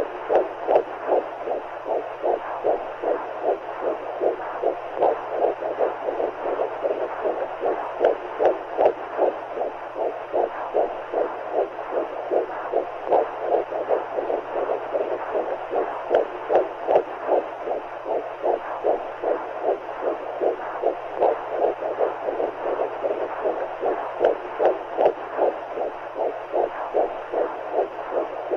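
Womb sound for lulling a baby: a fast, even heartbeat, about two to three beats a second, pulsing through a steady whooshing hiss of fluid, with a faint low hum underneath.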